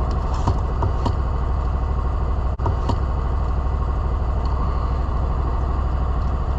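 Cub Cadet Big Country utility vehicle's engine idling steadily, with a few light clicks as a hose quick-disconnect coupling is fitted.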